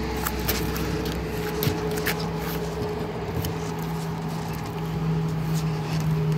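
A steady low motor hum, with light clicks and knocks scattered through it.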